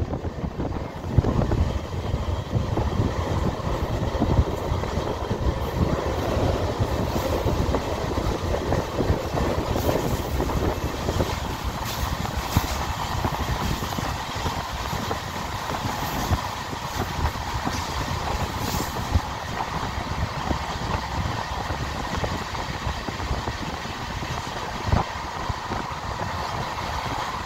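LHB passenger coaches running at speed, heard from on board: a steady rumble of wheels on the rails with rushing air, broken by a few sharp clacks.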